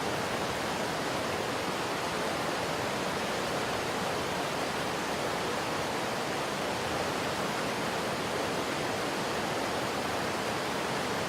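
Fast-flowing river rushing, a steady, unbroken sound of running water.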